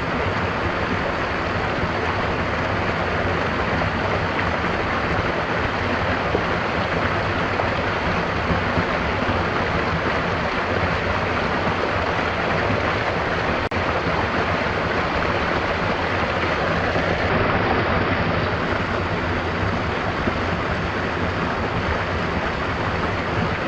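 Steady rushing of a flowing stream, with a brief dropout about fourteen seconds in.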